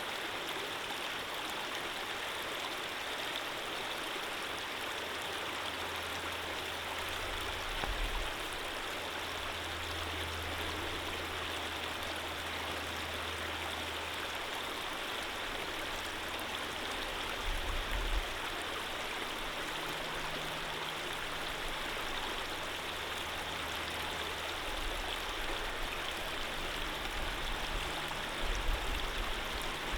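Running water of a stream, flowing steadily with an even rushing hiss. A low rumble comes and goes underneath, with a few brief low thumps.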